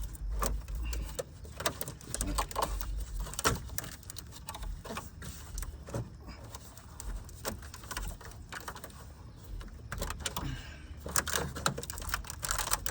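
Irregular clicks, knocks and rattles of a plastic radiator cooling fan assembly being wiggled out past the radiator and hoses.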